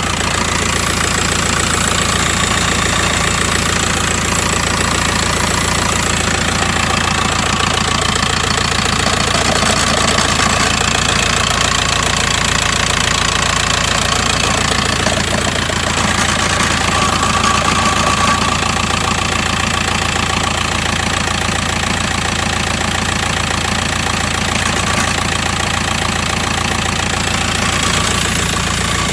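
2008 VW Transporter T5's 1.9 TDI four-cylinder diesel engine running steadily with a rattle, a noise the owner cannot identify.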